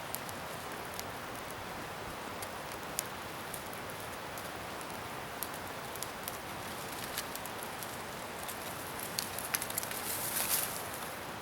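Garden bonfire of scrap wood burning: a steady rushing hiss with scattered sharp crackles and pops, and a denser flurry of crackling near the end.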